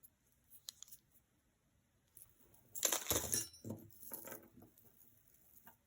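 Metal costume jewelry clinking and jingling as it is handled, with a louder jangle of chain and pieces about three seconds in.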